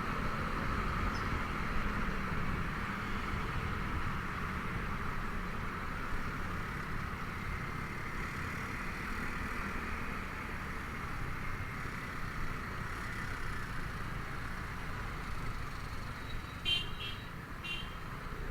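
Honda Vario 125 scooter's single-cylinder engine running steadily under way, with road and wind noise. Near the end come a few short, high horn beeps.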